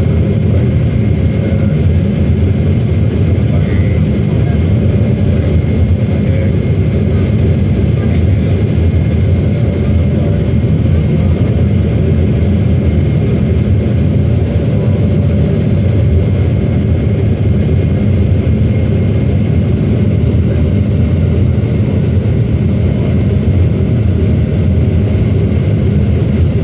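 Steady, loud cabin noise of a Boeing 777-300ER airliner in flight: a constant low rumble of airflow and engines heard from inside the passenger cabin.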